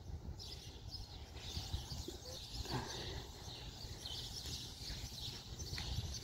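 Small birds chirping and twittering repeatedly over a steady low rumble.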